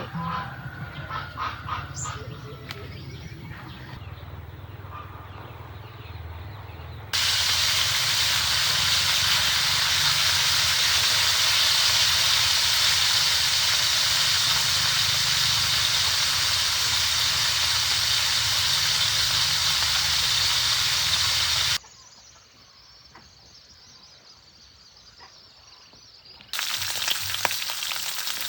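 Food frying in a hot pan: a loud, steady sizzling hiss that stops abruptly and comes back with crackling near the end.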